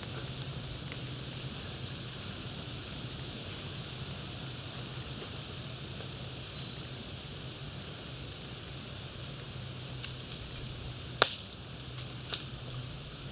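Campfire crackling over a steady hiss of burning wood, with scattered small pops. One loud sharp pop comes near the end and a smaller one about a second later.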